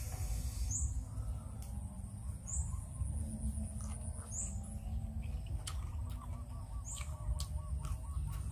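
Close-up chewing of Khmer crab salad: wet mouth sounds and small clicks and crunches as he eats with his fingers. A bird gives a short rising chirp about every two seconds.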